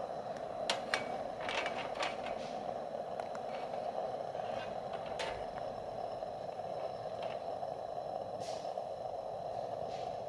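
A steady hiss with light clicks and knocks, several in the first couple of seconds, then one about halfway through and one near the end.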